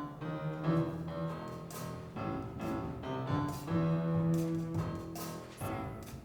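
Instrumental music led by piano, playing held notes as a song's accompaniment.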